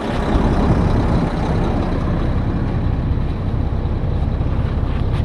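2001 Mack CX-series truck's diesel engine idling steadily.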